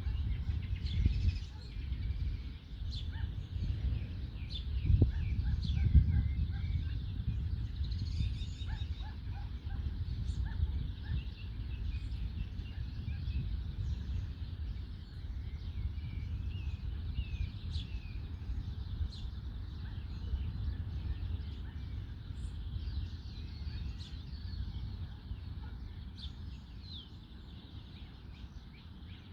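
Several songbirds chirping and trilling in short phrases over a steady low rumble, with the rumble strongest in the first few seconds.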